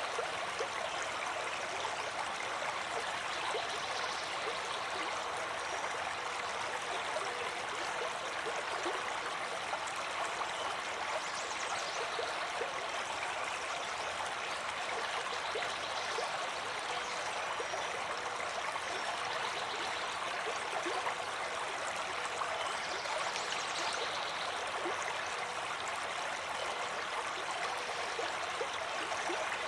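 Flowing stream water, a steady rush.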